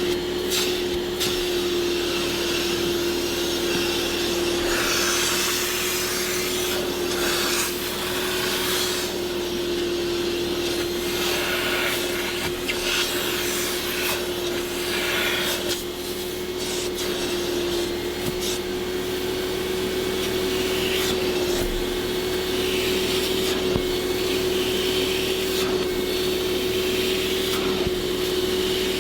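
Vacuum motor running steadily with a constant whine, with repeated rubbing strokes across car upholstery.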